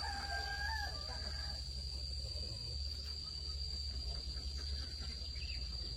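A chicken gives one short held call about a second long at the start. Under it runs a steady high-pitched whine and a low rumble.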